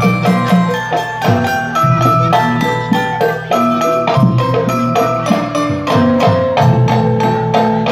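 Traditional Javanese gamelan-style dance music: mallet-struck pitched percussion playing a steady, repeating pattern over drumming.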